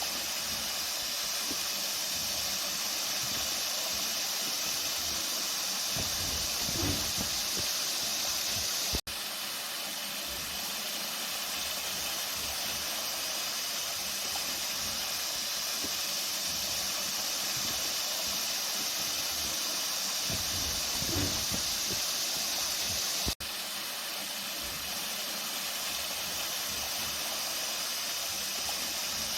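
Flowing water rushing steadily, an even hiss-like wash of sound. It drops out for an instant twice, about a third of the way in and again near three quarters.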